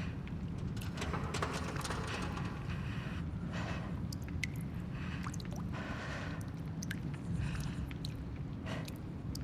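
Abandoned-building ambience: a steady low rumble with scattered small ticks and drips, and several short rustling swells that come and go.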